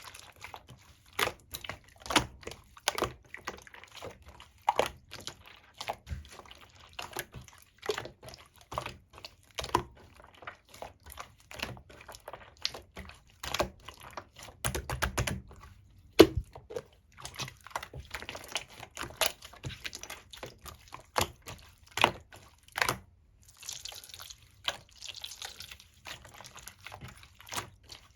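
Soft, wet 'yogurt pudding' slime being squished, pressed and poked by hand, giving an irregular run of sticky clicks and small popping sounds.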